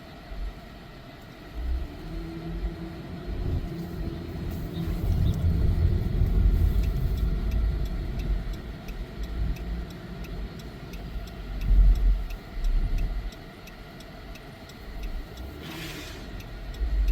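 Car driving slowly, heard from inside the cabin: a low engine and road rumble that swells and eases, with a faint regular ticking.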